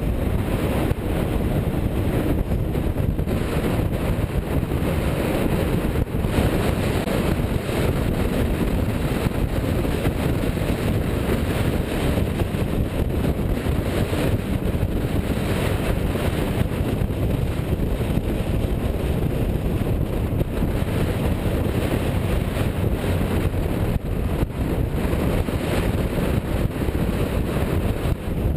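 Steady rumble of a car driving along, mixed with wind buffeting the microphone.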